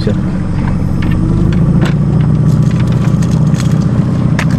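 A boat's outboard motor running steadily, with a few sharp clicks over it.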